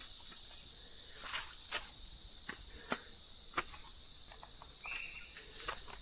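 Steady high-pitched insect chorus of tropical forest, with the scattered crunch of footsteps on a dry jungle trail and one brief high note about five seconds in.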